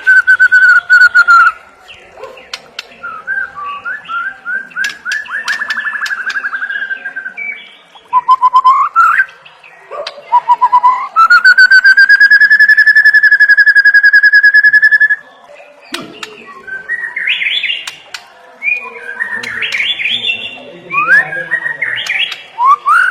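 White-rumped shama (murai batu) singing loudly in varied phrases: a falling whistle, runs of quick rising notes, then a long rapid trill held for about four seconds near the middle, followed by scratchy, chattering notes.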